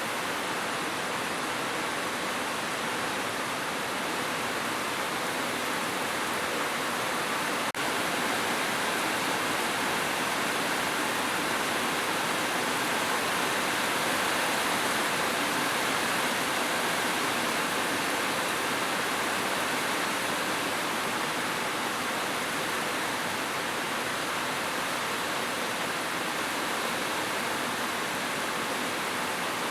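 Heavy rain falling steadily on a roof, an even hiss of dense drops. There is a momentary break in the sound about eight seconds in.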